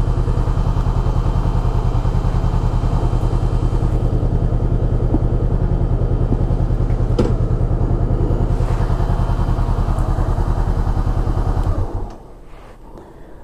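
Honda sport motorcycle's engine idling steadily with an even pulsing beat, then switched off and cutting out abruptly near the end.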